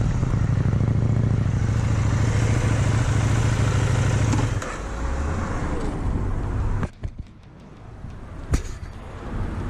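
Motorcycle riding with its engine running steadily under wind rush. It eases off about four and a half seconds in and goes much quieter near the end, where there is one sharp knock.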